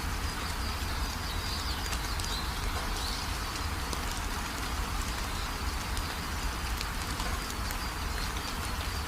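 Steady rain falling, with faint high bird chirps now and then, mostly in the first few seconds.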